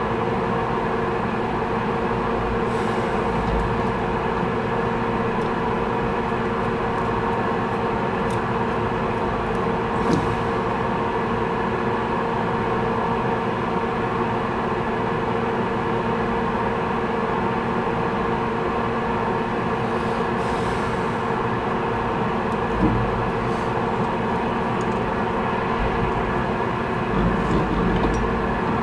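A metalworking machine tool running steadily, a constant hum with a steady whine and a few faint clicks.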